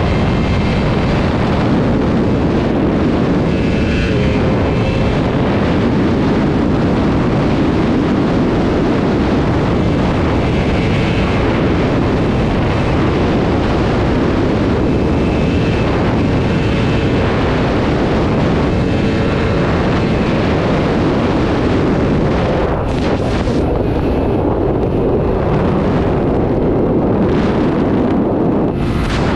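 Sport superbike ridden at highway speed: a loud, steady rush of wind on the microphone over the engine, with a higher engine note coming through now and then.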